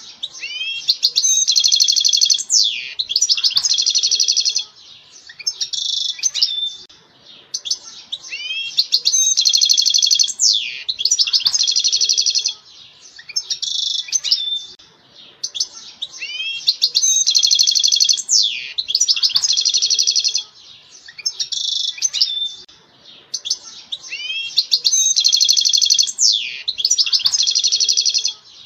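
European goldfinch singing: bursts of high, twittering and buzzy trilled phrases, each about four seconds long, repeating about every eight seconds.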